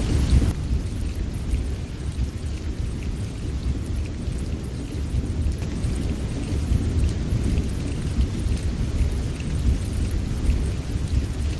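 Low, gusting rumble of strong wind buffeting the microphone, with no distinct tones or impacts.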